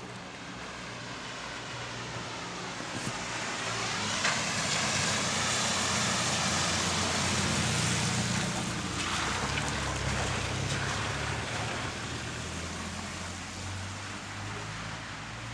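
A motor vehicle's running noise, with a low hum under a steady hiss, swelling to its loudest in the middle and fading again.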